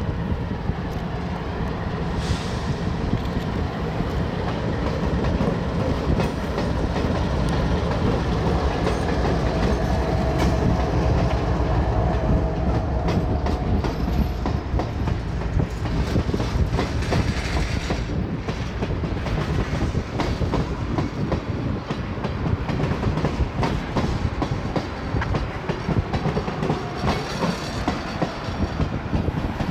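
A freight train of oil tank cars rolling past at speed: a steady low rumble with rapid wheel clicks over the rail joints.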